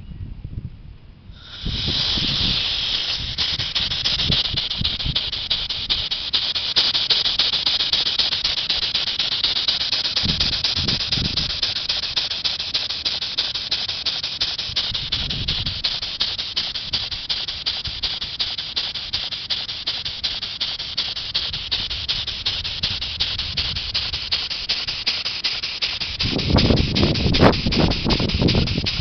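Very old handmade model steam engine running, with a loud, steady hiss that starts suddenly about a second and a half in. Low rumbles come and go beneath the hiss and are strongest near the end.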